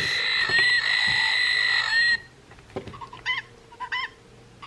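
A recorded snow goose call played through the small speaker of a Wild Republic plush bird's sound box. It starts as a steady high tone for about two seconds, then turns to short calls repeated about every half second.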